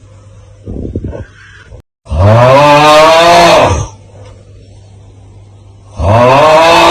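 The 'Aauuggh' meme sound: a man's long, loud groaning yell whose pitch rises and then falls, heard twice, about two seconds in and again near the end, with a low steady hum in the gaps.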